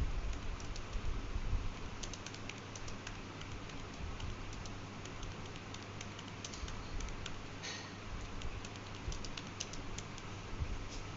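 Irregular light clicks and taps, many coming in quick runs, over a steady low hum.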